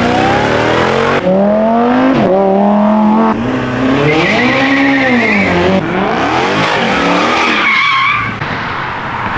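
Car engines revving: the pitch repeatedly rises and falls in sweeps of about a second, with abrupt jumps between revs about one, three and six seconds in. A high wavering whistle rides over the revs in the middle and later part.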